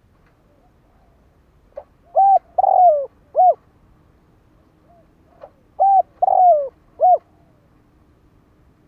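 Decoy spotted dove calling: two phrases of three coos about four seconds apart, the middle coo of each longer and falling in pitch.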